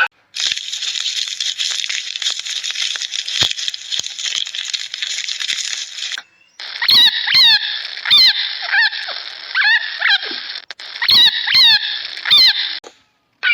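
High-pitched animal sounds in two takes. The first is a dense, steady chorus of high chirping. It breaks off about six seconds in, and after a short gap comes a series of about ten short squeaky calls, each falling quickly in pitch.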